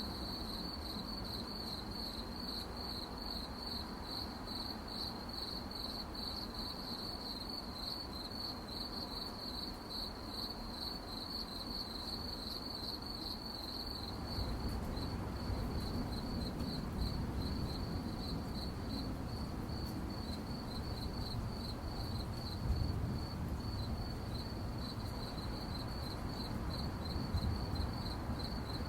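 Crickets chirping in a steady, rapidly pulsing high chorus. About halfway through, a low rumble comes in underneath and carries on.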